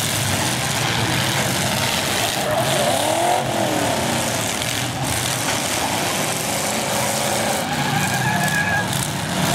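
Several full-size demolition derby cars' engines running and revving together as one steady din. One engine rev rises and falls about three seconds in, and a brief high squeal comes near the end.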